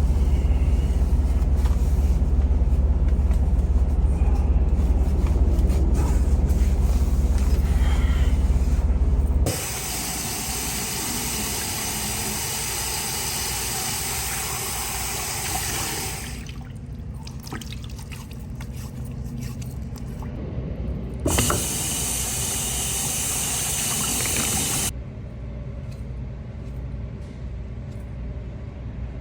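Semi-truck cab engine and road noise, cut abruptly in several places: a heavy low rumble at first, then lighter running noise. Near the end comes a sharp knock followed by a few seconds of loud rushing hiss.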